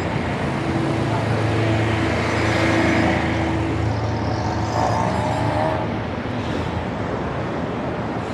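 Busy city road traffic heard from the roadside: vehicle engines running close by, with a steady low engine hum through most of it over a constant rush of tyre and traffic noise.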